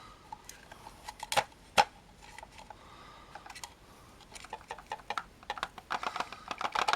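Static grass applicator at work: the fibres make small crackling ticks as they fly out. There are scattered clicks at first, two of them sharper about a second and a half in, then a quickening run of rapid ticks through the second half.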